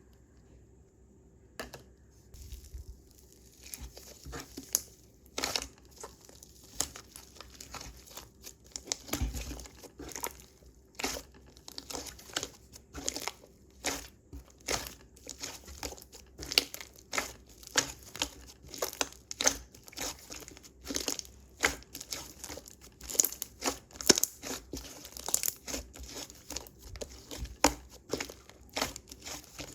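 Slime being worked by hand, with irregular crackling pops and clicks that begin about two seconds in and come thicker as it goes on.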